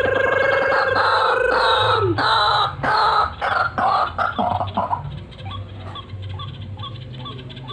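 Truwok bird calling: one long, steady note breaks about two seconds in into a rapid stuttering series of notes, which from about five seconds in fade into soft short notes repeated about twice a second.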